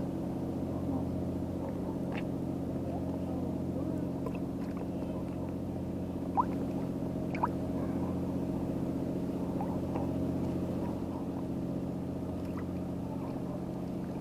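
Boat engine idling steadily. Two short sharp sounds stand out about six and seven seconds in.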